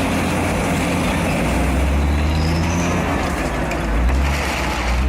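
D155 diesel crawler dozer working: the engine runs steadily under load beneath a dense mechanical clatter.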